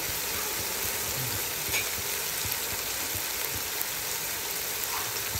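Onion-tomato masala sizzling steadily in oil in a wok, with a few faint crackles; the masala is fully cooked, with oil pooling out of it.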